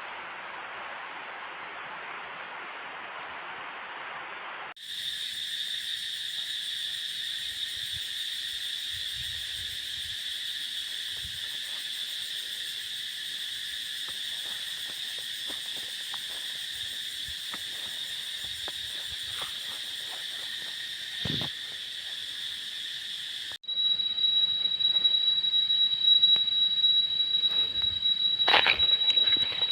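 A steady hiss for the first few seconds, then a steady, high-pitched chorus of insects. About 24 s in it changes abruptly to a single shrill insect tone, with a few clicks.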